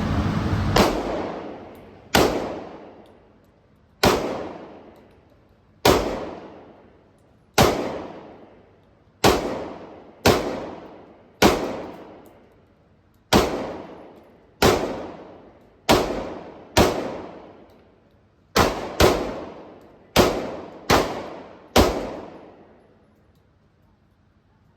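AR-15 rifle in 5.56 fired one shot at a time, about seventeen shots at an uneven pace of one every second or two, with a couple of quicker pairs late on. Each shot rings out with a long echo in an enclosed indoor range.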